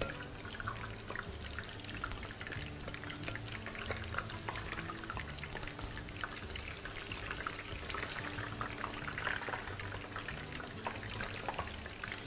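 Eggplant slices frying in hot oil in a frying pan: a steady sizzle made of many small crackles and pops.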